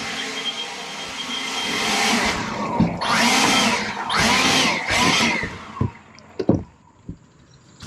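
A motor running steadily, then revving up and back down twice before shutting off. A few sharp knocks follow.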